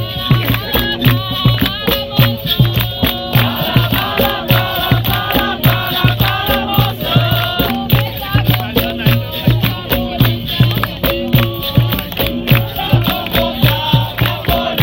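Capoeira roda music: berimbaus and hand percussion keep a fast, even rhythm, with a group singing over it in the middle of the passage.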